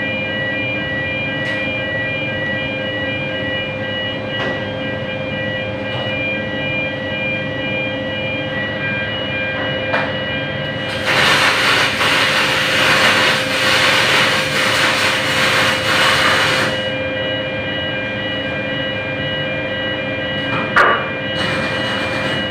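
A steady machinery hum with several steady tones, broken about halfway through by an aluminium MIG welding arc that hisses and crackles for about six seconds and then stops.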